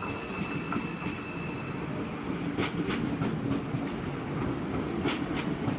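ICE 4 high-speed electric train rolling in beside the platform, with a steady low running rumble. From about halfway through come several sharp clacks of its wheels over rail joints.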